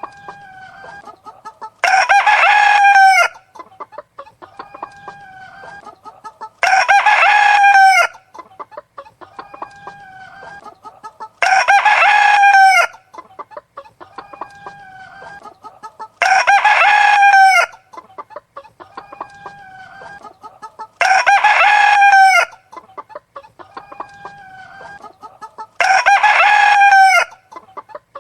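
Rooster crowing six times, about every five seconds, each crow lasting over a second, with hens clucking quietly between the crows. The crows and clucks repeat in an identical pattern, like a looped recording.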